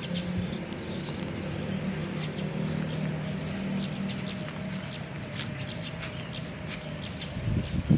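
Small birds chirping in short, scattered high calls, over a low steady hum that fades out about five seconds in.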